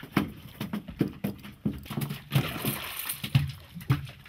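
A freshly gaffed mahi-mahi thrashing against the boat, making rapid, irregular knocks and thumps, with a short splash of water about halfway through.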